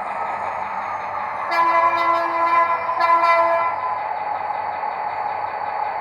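Sound decoder playing a GT22 diesel locomotive: the engine runs steadily while the multi-tone horn blows twice, a longer blast about a second and a half in, then a short one.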